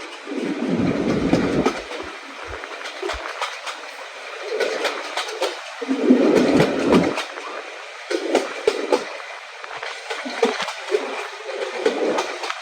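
Train running on the rails: wheels clattering in uneven swells, with many sharp clicks.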